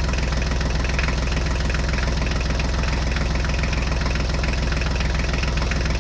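Tractor diesel engine running steadily with an even, rapid chug.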